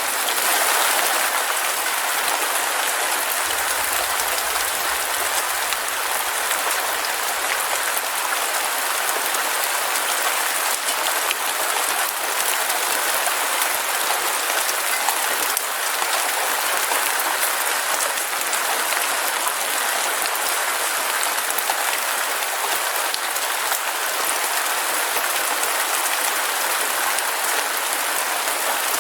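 Heavy rain falling steadily: an even, continuous hiss of countless drops.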